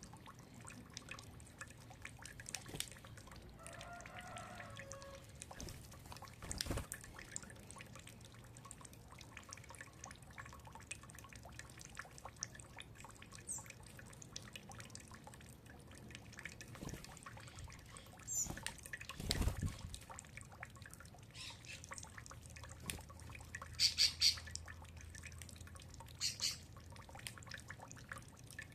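Birds chirping and calling now and then over a steady patter of small clicks and taps, with a few loud high chirps in quick succession near the end. Two dull knocks stand out, one early and one past the middle.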